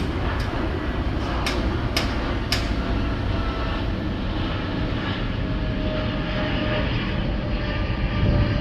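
Steady low rumble inside a passenger train carriage, with a few sharp clicks in the first few seconds and a faint steady tone later on.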